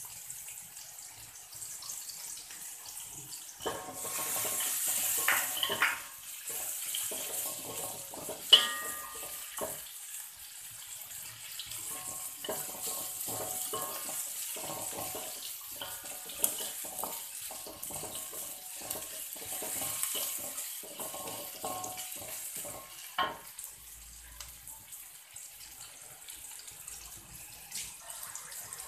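Sliced shallots and spice paste sizzling in hot oil in a metal wok, with a wooden spatula scraping and knocking against the wok as they are stirred. One sharp clack, the loudest sound, comes about eight and a half seconds in.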